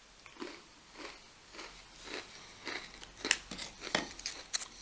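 A person chewing a cracker with cheese spread: crisp crunches about twice a second, with sharper crackling bites near the end.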